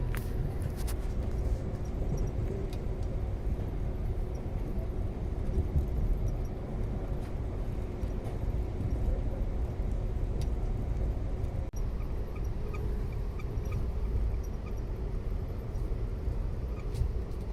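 Steady low rumble of a moving vehicle, with a faint constant hum running through it.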